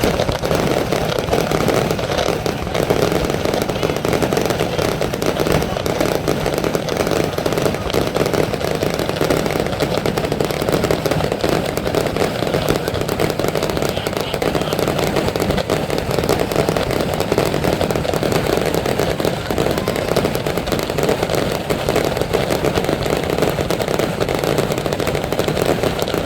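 Fireworks display: a dense, continuous run of bursts and crackling, with crowd voices underneath.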